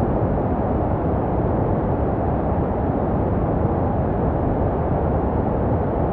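Steady, unchanging white noise for baby sleep, deep and muffled rather than hissy, with most of its weight low and little treble. It is made to resemble the sounds a baby hears inside the womb.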